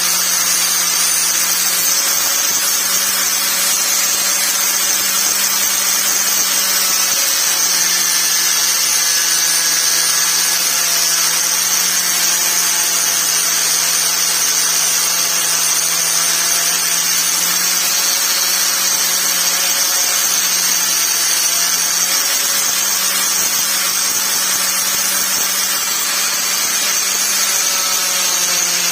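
Angle grinder running continuously, its high whine wavering slightly in pitch.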